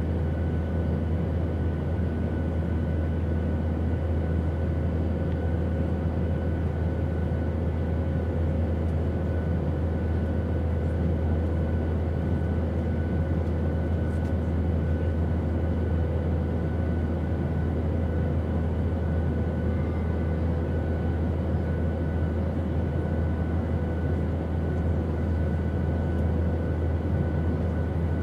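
Steady airplane noise: a constant deep rumble with a few faint steady hum tones above it, unchanging throughout.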